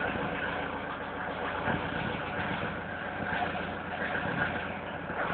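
Mercedes-Benz W124 200D's four-cylinder diesel engine idling steadily while still cold, shortly after a cold start.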